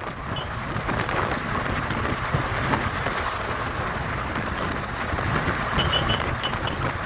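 Wind rushing over the microphone of a riding Honda Hornet 160R motorcycle, with a steady low rumble of engine and road noise underneath. A few short high beeps come in quick succession about six seconds in.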